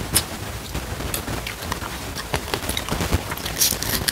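Close-miked eating: irregular wet chewing, mouth clicks and smacks as rice and salted snakeskin gourami (ikan asin sepat) are eaten by hand, with a brighter burst of crunching near the end as a piece of the salted fish is bitten.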